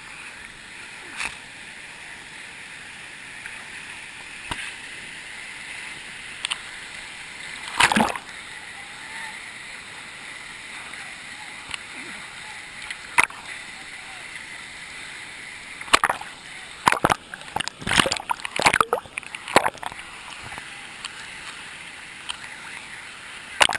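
Steady rush of a waterfall, with splashing and sharp knocks here and there, a quick cluster of them in the second half.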